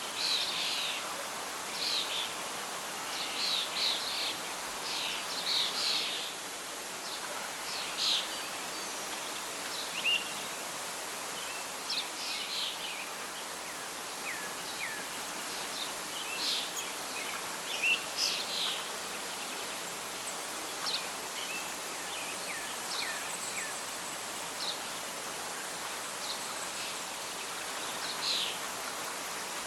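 Nature soundscape of birds chirping in short, repeated calls, some sweeping in pitch, over a steady hiss of wind and rustling leaves.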